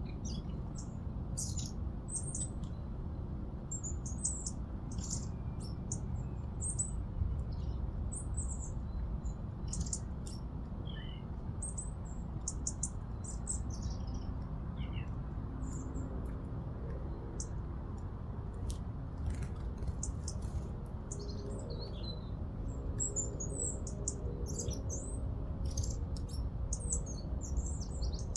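Small garden birds calling: many short, high chirps and tweets, scattered and overlapping, over a steady low rumble, with a faint hum coming in about halfway through.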